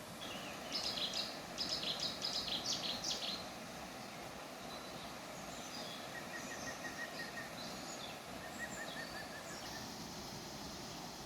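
A songbird singing in quick, loud bursts of notes for the first few seconds, then softer chirps and two short trills, over a steady rush of falling water.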